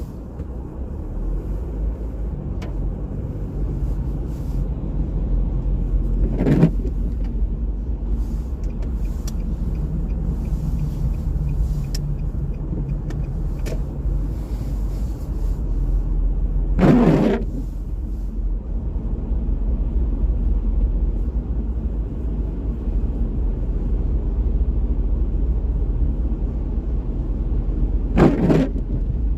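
Car driving on rain-wet streets: a steady low road rumble, broken by three short swishes about eleven seconds apart.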